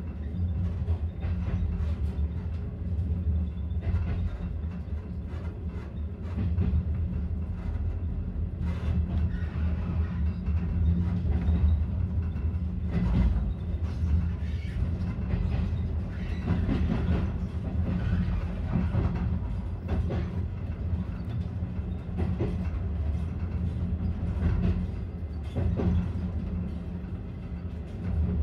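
Passenger train rolling along the track, heard from inside its last carriage: a steady low rumble from the wheels and running gear, with sharp clicks from the wheels every second or few.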